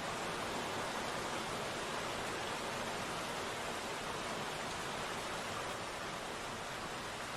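Steady rainfall: an even hiss with no separate drops, thunder or other sounds standing out.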